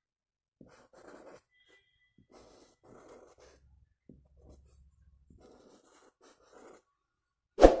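Faint, intermittent scratching and rustling of a kolam being drawn by hand on the floor, in several short strokes, then one loud sharp knock near the end.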